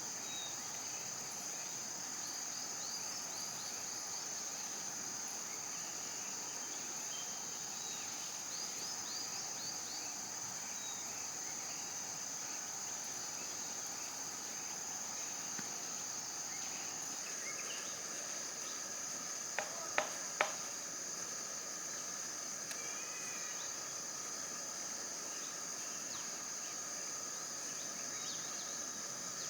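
Steady high-pitched insect chorus trilling without a break, with faint scattered bird chirps. Three sharp clicks come close together about two-thirds of the way through.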